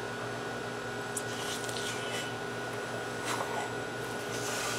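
A man chewing a mouthful of chicken wing, with a few faint mouth sounds over a steady machine hum.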